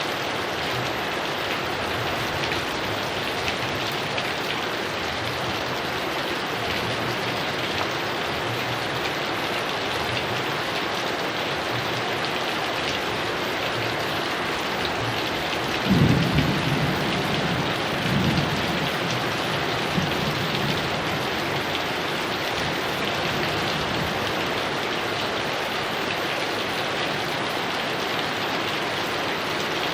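Heavy rain falling steadily, with a sudden low clap of thunder about halfway through and a smaller rumble of thunder about two seconds later.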